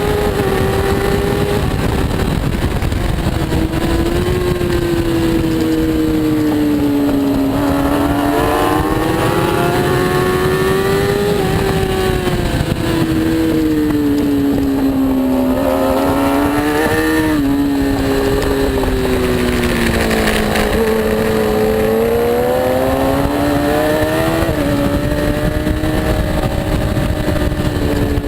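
Superbike racing motorcycle engine running hard under a constant rush of noise, its note rising and falling in slow sweeps of a few seconds each as the rider accelerates and slows through the turns.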